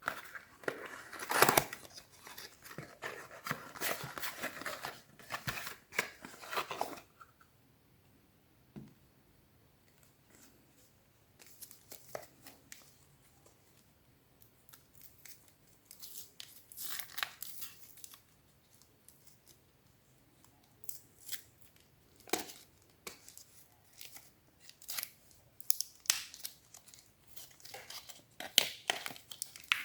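Soap packaging being opened by hand: crinkling and tearing of the wrappers in a dense run for the first several seconds, then short bursts with pauses between them.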